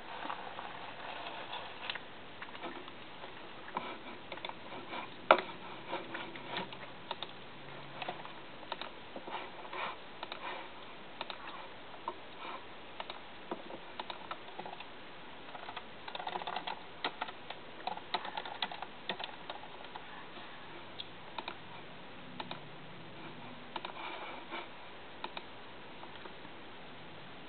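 Scattered small clicks, taps and rustles of eating and handling food and its packaging close to the microphone, with one sharper click about five seconds in.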